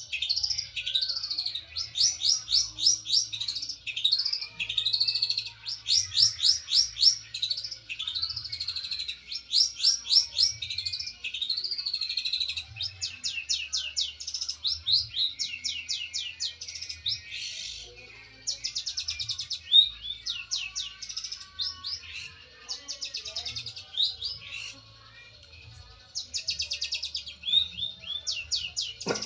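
Long-tailed shrike (cendet) singing a long, varied song of rapid trills and short rising chirps, with only brief pauses.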